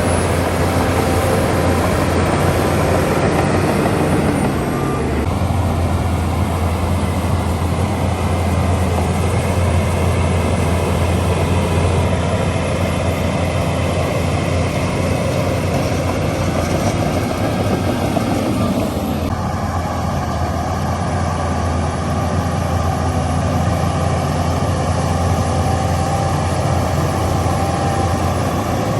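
Heavy diesel earthmoving machinery, a crawler bulldozer and an excavator, running steadily under load with a deep engine hum. The engine note shifts about five seconds in and again about two-thirds of the way through.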